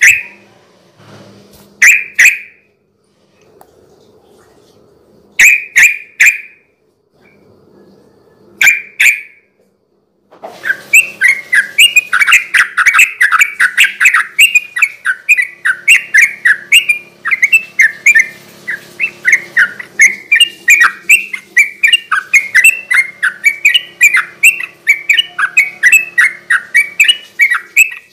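Sooty-headed bulbul singing: a few short phrases of clear notes with gaps between them, then, about ten seconds in, a long unbroken run of rapid, chattering notes at about four a second.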